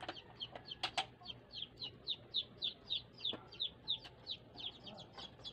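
A bird peeping in a steady run of short, high, falling chirps, about five a second. Two sharp clicks come about a second in.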